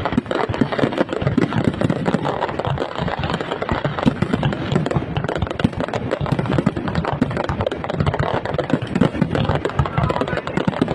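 Fireworks display at full barrage: a dense, unbroken crackle of many small bursts and pops overlapping one another.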